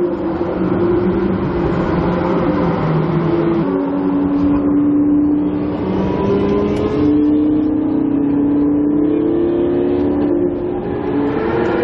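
Supercar engine running loudly, its pitch dropping about four seconds in and then rising slowly in steps.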